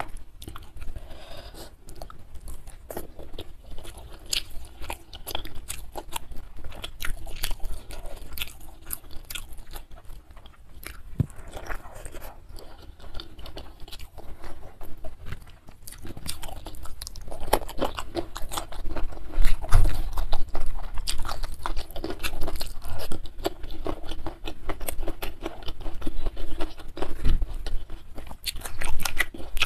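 Close-miked chewing of fried catfish, with irregular crunches and wet mouth sounds, growing busier in the second half.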